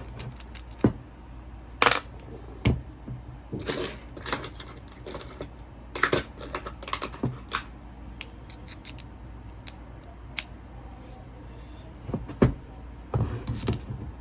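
Irregular clicks and light knocks of hand tools and metal parts being handled while the polisher's gear housing is unfastened. They are scattered through the first half, mostly stop for a few seconds, then return as a quick cluster near the end.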